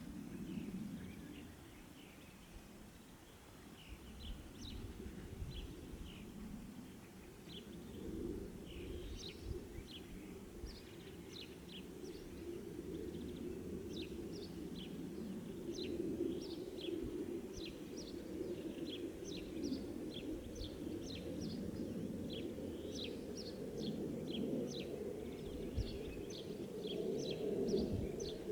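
Small birds chirping, many short quick notes that grow thicker and more frequent after the first several seconds, over a steady low rumble that swells toward the end.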